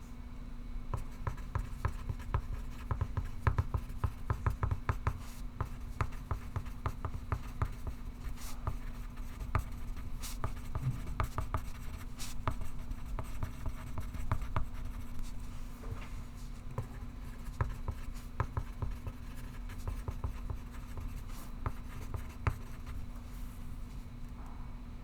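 Pencil writing on paper: quick scratchy strokes, most dense in the first several seconds, then more spread out. A steady low hum runs underneath.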